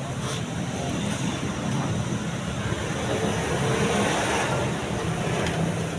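Steady rumble of road traffic, a little louder around the middle.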